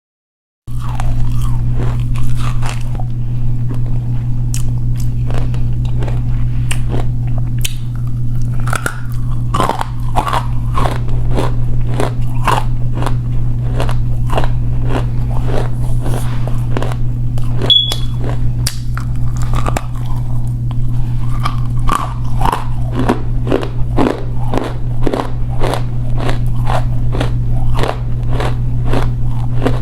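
A person biting and chewing edible clay close to the microphone: crisp crunches, a few a second, over a steady low hum. The sound starts suddenly just under a second in.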